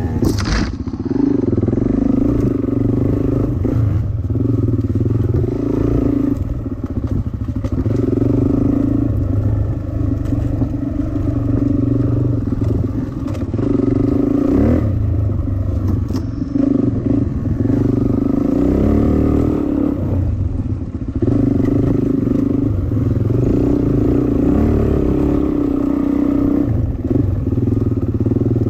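Dirt bike engine running under load, the throttle opening and closing every couple of seconds. A sharp clack comes about half a second in.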